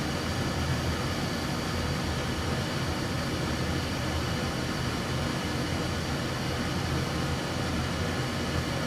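Steady hum and hiss of a workbench fan running, with a constant low hum underneath.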